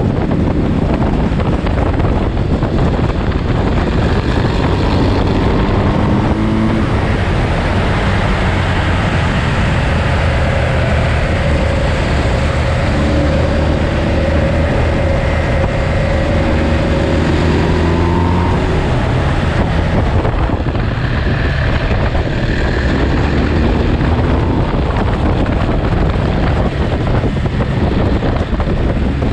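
Motorcycle engine running on the move, its note rising and falling several times as the revs change, under a steady rush of wind on the microphone.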